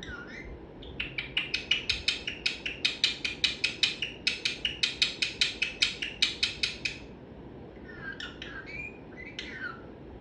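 Pet parrot giving a rapid run of sharp clicking chirps, about four or five a second for some six seconds, then a few short falling whistles near the end.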